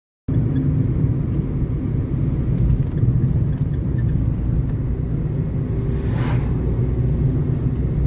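Steady low rumble of a car on the move, road and engine noise, with a brief hiss about six seconds in.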